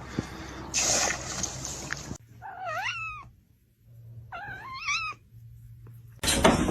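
A rushing noise for the first two seconds, then a domestic cat meowing twice, each a wavering call about a second long, with a short gap between them.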